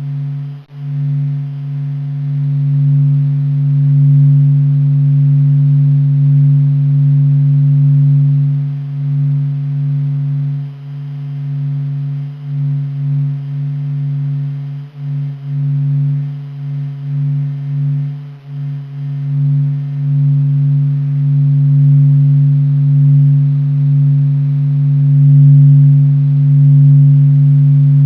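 Sonified sound of the Sun from NASA data: a deep, steady humming drone with a fainter overtone above it, swelling and dipping unevenly in loudness.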